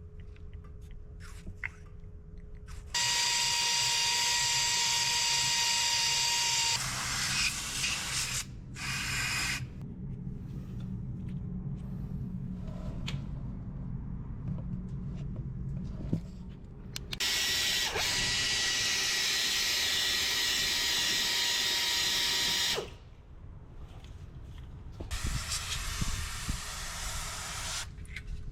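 Handheld electric drill running in two bursts of about four and six seconds, a steady whine each time, with quieter handling and tapping between.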